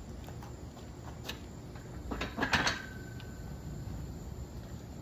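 Weightlifting gear clanking: a quick cluster of metal knocks a little over two seconds in, with a short ringing tone after, amid a few lighter clicks.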